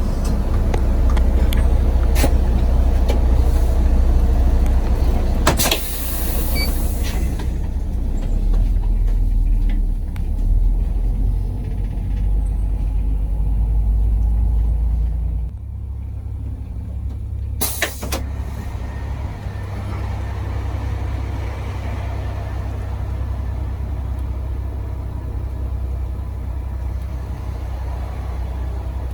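Charter coach's diesel engine and road noise heard from inside the bus, a steady low rumble. Its note drops about halfway through as the coach slows, and a short hiss of air brakes follows a couple of seconds later.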